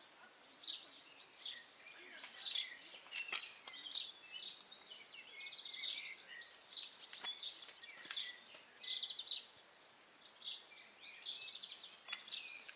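Songbirds singing and chirping, a busy run of quick high chirps that thins out briefly about ten seconds in.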